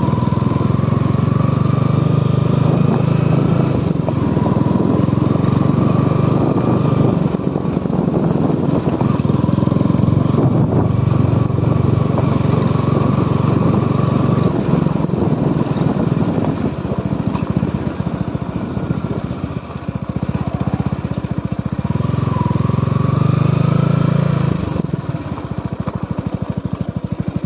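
Small motorcycle engine running, its pitch rising and falling with the throttle. About 25 seconds in it drops back to a steady, evenly pulsing idle.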